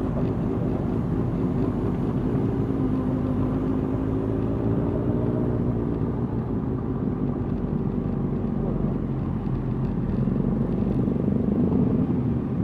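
Motorcycle engines running at a slow, steady pace, the engine note drifting gently up and down.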